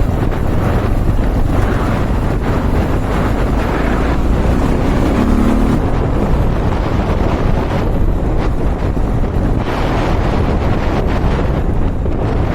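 Honda XR650L's single-cylinder four-stroke engine running while the motorcycle is ridden, with heavy wind noise on the microphone.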